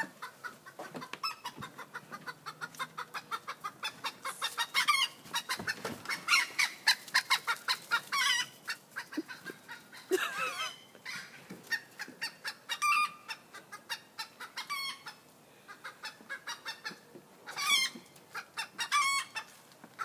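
Chickens clucking in quick, continuous runs, with louder drawn-out calls breaking through every few seconds.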